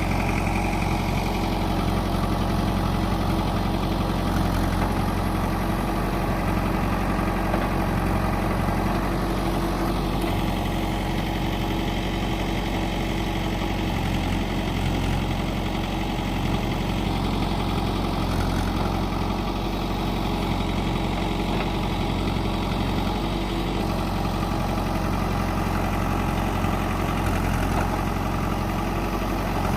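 Heavy diesel machine engine running steadily at a low, even speed, with no revving.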